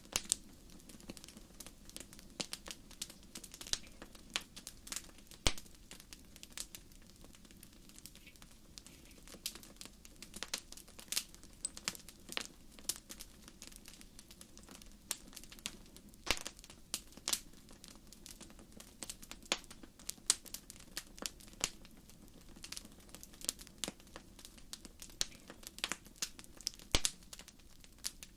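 Wood fire crackling in a fireplace: irregular sharp pops and snaps, some close together, over a steady low rush.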